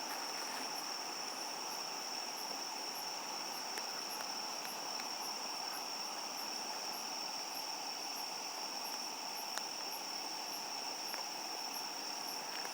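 Crickets and other night insects singing: a steady high trill, with a row of higher chirps about twice a second over it. A few faint crackles come from a campfire.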